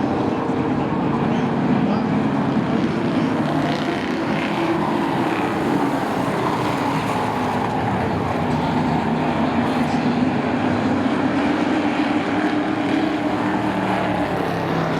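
A field of short-track race trucks running laps at speed, several engines overlapping in a steady, continuous drone whose pitches shift slightly as the trucks pass.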